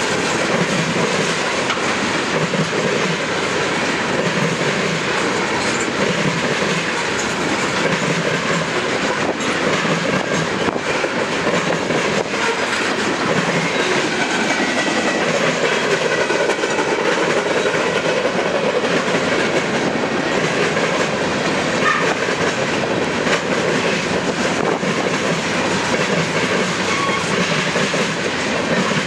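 CSX manifest freight train's cars rolling steadily past, their wheels clacking in a repeating rhythm over the rail joints.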